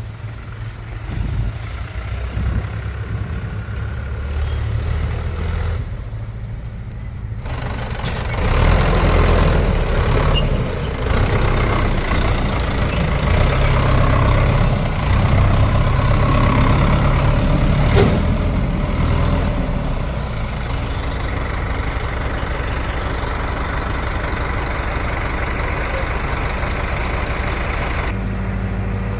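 Heavy diesel machinery engine running. It idles at first, then works harder and louder from about eight seconds in, with a single sharp knock near the eighteen-second mark.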